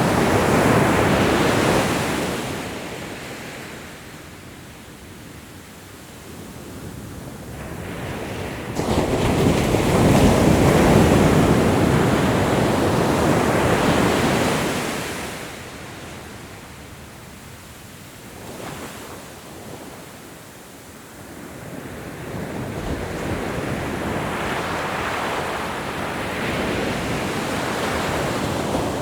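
Ocean waves breaking and washing back in slow surges. One wave is fading away at the start, the next crashes in suddenly about nine seconds in and ebbs away a few seconds later, and another builds gradually over the last third.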